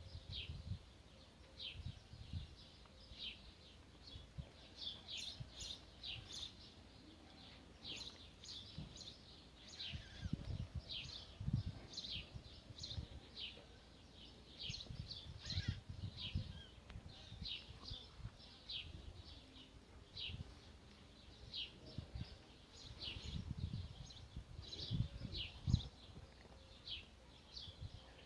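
Small birds chirping repeatedly in short, high notes, with irregular low rumbles underneath.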